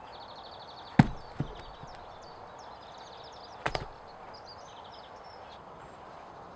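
A few hard, separate blows: a sharp one about a second in, a lighter one just after it, and a quick double blow near four seconds, with small birds chirping throughout.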